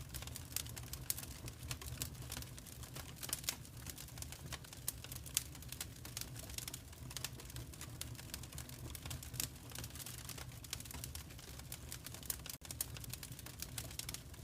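Wood fire in a fireplace crackling with irregular pops and snaps over a steady low rumble. The sound cuts out for a moment about twelve seconds in.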